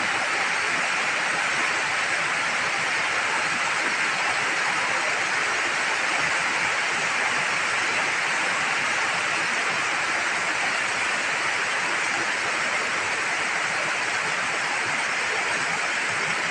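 Heavy typhoon rain and storm runoff streaming down a street, a steady, unbroken rushing hiss.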